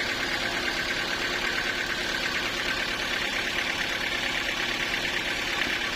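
Sawmill engine running steadily at an even speed, with a fast regular pulse.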